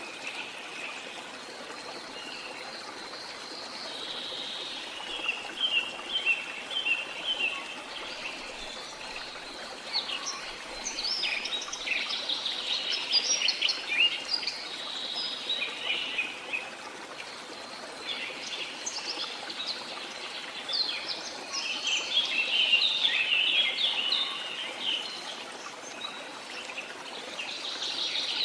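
Several birds chirping and singing in bursts over a steady hiss of running water from a stream. The birdsong is busiest from about ten to sixteen seconds in and again from about twenty-one to twenty-five seconds in.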